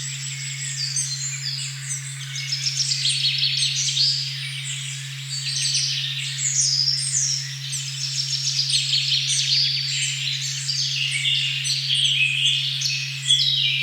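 A dense chorus of many birds chirping and trilling without pause. Under it runs a steady low sine tone at 136.1 Hz, the 'OM' frequency.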